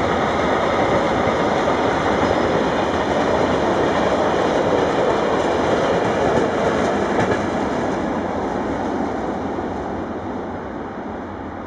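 Freight train rolling past on the track: a steady, loud rolling noise that fades over the last few seconds as the train moves away.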